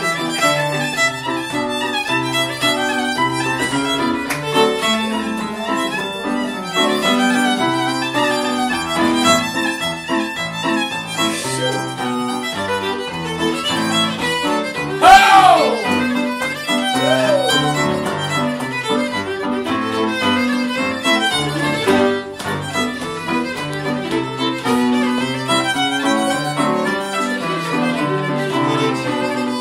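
Irish traditional session music, with fiddle carrying a brisk tune of quick, even notes. A brief loud voice, a shout or call, cuts in about halfway through.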